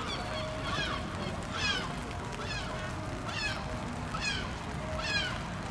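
A gull calling again and again, about six short calls falling in pitch, a little under one a second, over a steady low rumble.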